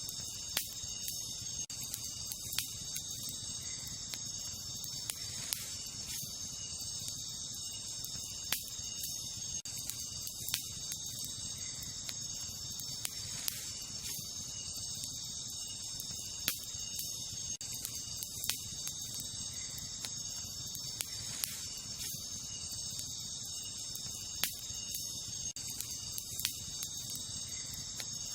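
Wood campfire crackling, with sharp irregular pops about every second or two, over a steady high-pitched chorus of night insects such as crickets.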